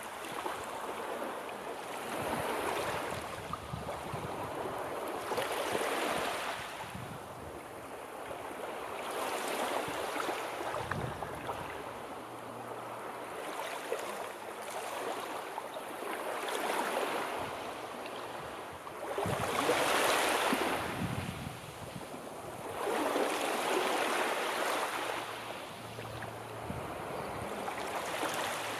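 Sea waves washing onto the shore, the surf swelling and falling away every three to four seconds, with the loudest wave about two-thirds of the way through.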